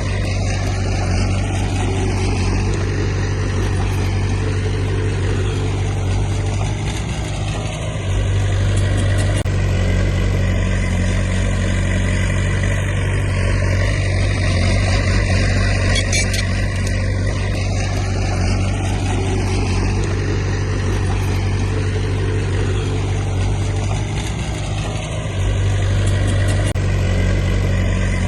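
Diesel engine of heavy earthmoving equipment running steadily, easing off briefly twice, about a quarter of the way in and again near the end.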